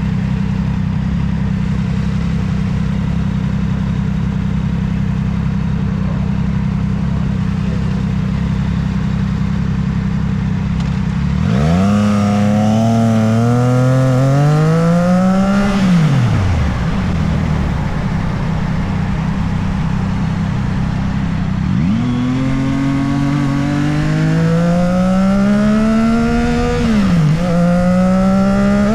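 Motorcycle engine running steadily at first, then revving up with a rising pitch about twelve seconds in and dropping away as the throttle is closed. It pulls up again from about 22 seconds in, with a brief dip in pitch at a gear change, then rises again.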